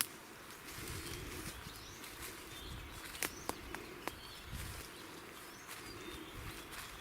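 Small songbirds chirping and singing, with a few sharp clicks a little past the middle and low rustling rumbles underneath.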